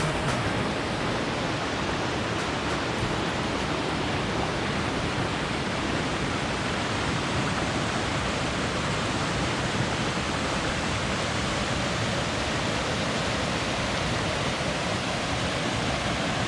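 A river rushing over rocks, a steady, even roar of flowing water.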